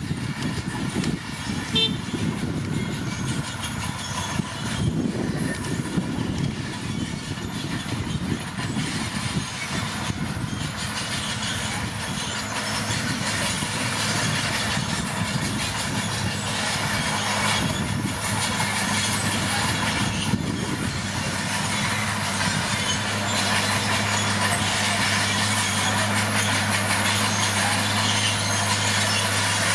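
Komatsu D41P crawler bulldozer working: diesel engine running under load with the clatter of its steel tracks. The steady low engine hum grows stronger in the second half.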